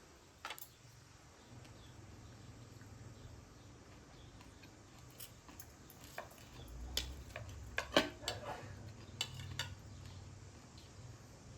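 Cutlery and dishes clinking and knocking in a few scattered strikes, then a busier run of clinks in the second half, the loudest about eight seconds in.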